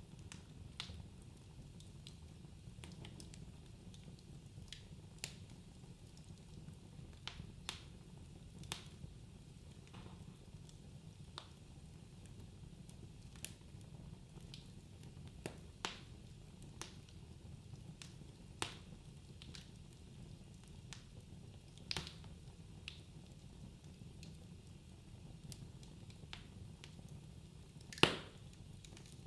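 Wood fire in a fireplace crackling: scattered sharp pops and snaps over a low steady rumble, with one louder pop near the end.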